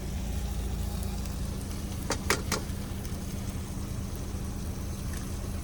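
Steady low hum of the idling semi-truck, with three sharp taps close together about two seconds in as an egg is knocked open against the pan.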